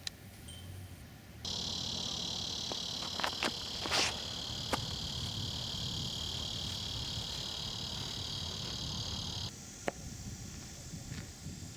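Steady, high insect chirring that comes in abruptly about a second and a half in and cuts off abruptly a couple of seconds before the end, with a few sharp clicks early on.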